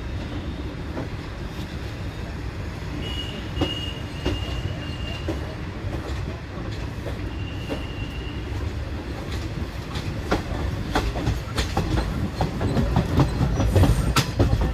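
Indian Railways express coach rolling along the track, heard close to the wheels from the coach doorway: a steady rumble with clacks of wheels over rail joints and points. The clacks grow louder and more frequent over the last few seconds. Twice there is a brief high squeal of the wheels.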